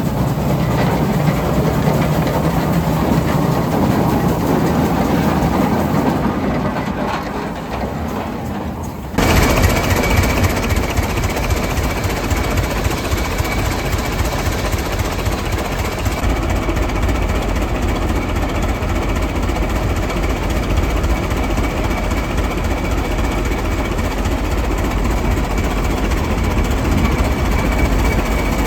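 Antique steam traction engines running without a pause: first a Geiser, then, after a cut about nine seconds in, a Reeves 40 running steadily, a sound called 'purring', with a faint steady tone over it.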